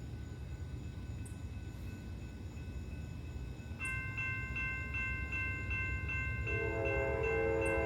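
Railroad grade-crossing bells start ringing about four seconds in, a quick steady ding-ding of two to three strikes a second, and a second, lower-pitched crossing bell joins near the end, over a low rumble. The crossing signals activating are the sign of an approaching train.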